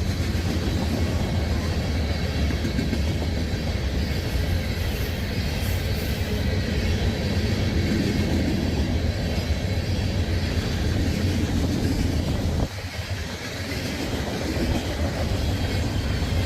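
Freight train of sand cars rolling past, a steady rumble of wheels on rail with some clickety-clack. The noise drops sharply about thirteen seconds in and builds back up.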